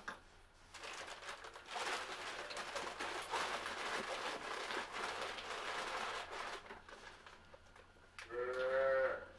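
Rustling and crinkling noise for several seconds, then a single bleat from a farm animal about eight seconds in.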